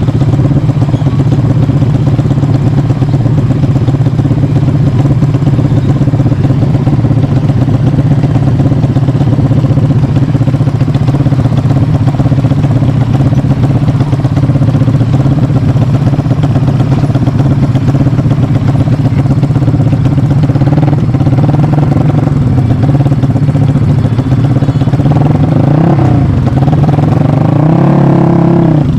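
Yamaha MX King motorcycle engine, built up to 300cc, idling loud and steady, then revved briefly twice near the end, the pitch rising and dropping back each time.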